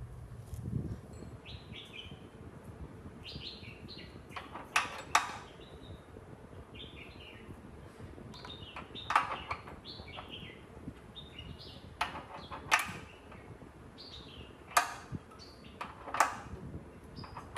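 Sharp knocks or taps at irregular intervals, about a dozen in all, with short falling bird chirps heard between them over a steady low background noise.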